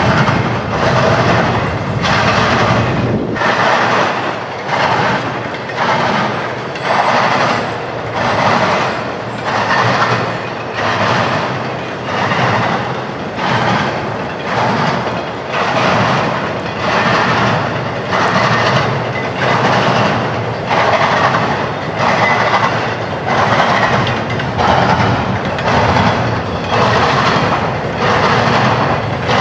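Freight train rolling past, its car wheels clattering over the rail joints in an even rhythm of about one loud surge each second.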